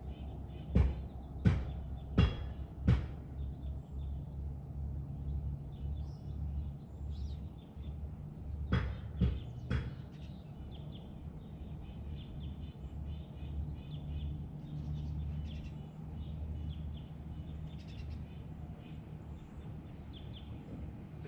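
Small birds chirping faintly and continually over a steady low rumble. Louder than the chirping are two runs of sharp taps or knocks: four about a second in, and three more about nine seconds in.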